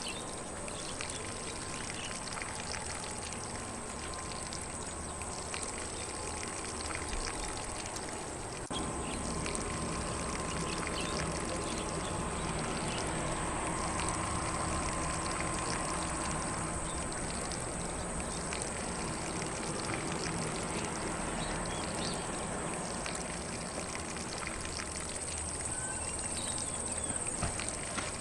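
Lawn sprinkler spraying water onto grass: a steady hiss of spray and patter, a little louder from about nine seconds in, with a thin steady high tone above it and faint animal sounds.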